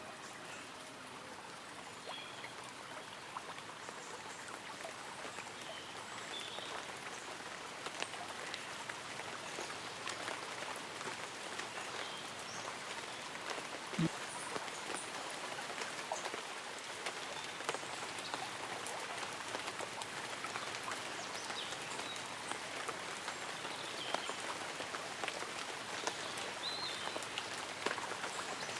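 Light rain falling on leaves and an umbrella, many separate drops ticking. It fades in over the first few seconds, and one heavier drop lands about halfway through.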